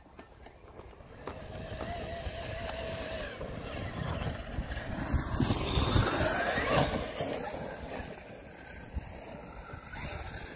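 Large radio-controlled truck's brushless electric motor whining as it speeds up and passes, its pitch rising and then falling near the middle, over a steady low rumble.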